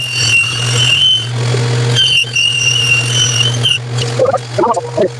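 Band saw motor running with a steady hum, and a high-pitched squeal from the blade in two stretches as it cuts wood, the second ending near four seconds in.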